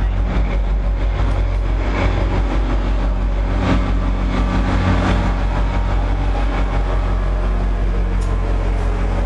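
Diesel locomotive engine of an NJT GP40PH-2 running steadily with a deep, even rumble, and a few faint knocks.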